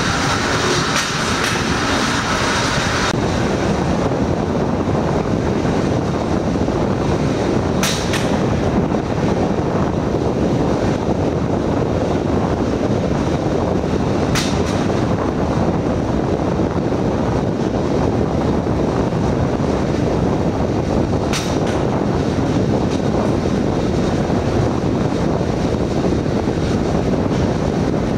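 Steel wheels of a Gattan Go pedal rail bike rolling along old railway track with a steady rumble, with a sharp clack as the wheels cross a rail joint about every seven seconds. A higher hiss runs with it for the first three seconds and then stops.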